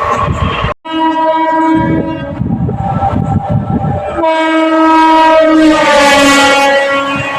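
Electric locomotive horn sounding twice, a short blast and then a longer one whose pitch drops as the train passes, over the loud rumble of a train running at speed.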